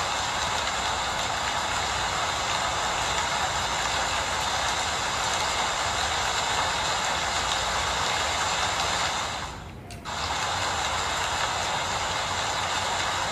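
Steady rain falling, an even hiss that drops away briefly about nine and a half seconds in.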